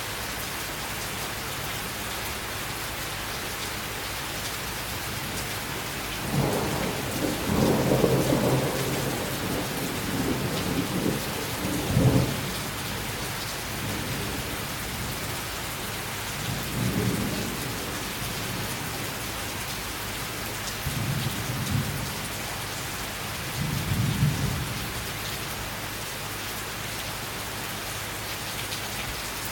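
Steady summer rain falling, with thunder rolling in over it. The rumbling swells from about six seconds in, comes to a sharp loud crack near twelve seconds, and returns in three shorter, weaker rolls later on.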